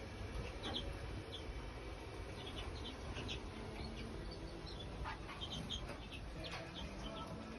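Small cage birds chirping in a bird room: scattered short, high calls over a low steady background hum.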